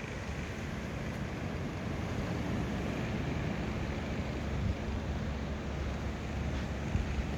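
Steady wind noise on the microphone: an unbroken low rumble with a hiss above it.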